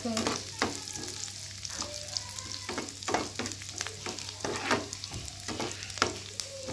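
Sliced cashews sizzling in hot ghee in a frying pan while a spatula stirs them, with repeated irregular scraping strokes of the spatula against the pan over the steady sizzle.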